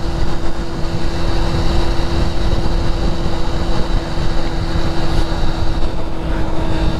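Steady road and wind noise from a vehicle cruising on a highway, with a constant, unchanging engine hum.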